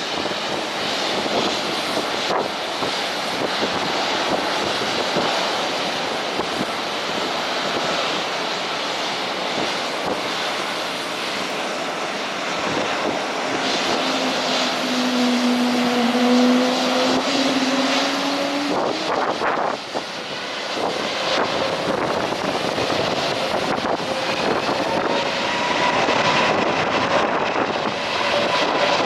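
Airliner engines running, heard through strong wind on the microphone. A low engine tone sounds for several seconds around the middle, and a higher tone rises slowly in pitch near the end.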